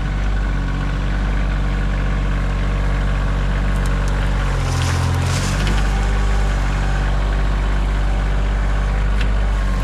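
Compact diesel tractor engine running steadily, its note shifting briefly about five seconds in, with a short crackle over it at the same time.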